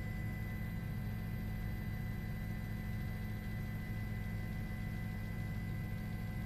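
Steady low hum with a few faint steady high tones and no changes or events.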